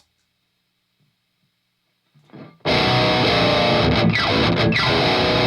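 A short click, a pause, then heavily distorted electric guitar through the Noise Pollution Pedals PMDM high-gain distortion pedal comes in loud about two and a half seconds in, with a few falling sweeps in pitch.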